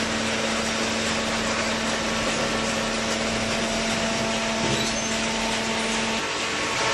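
Commercial cardboard baler running: a steady machine hum with a broad hiss, its low tone dropping out about six seconds in.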